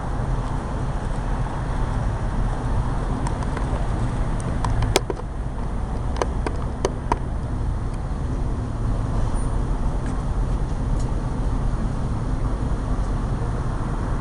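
Steady low rumble of street traffic, with a few sharp clicks about five to seven seconds in.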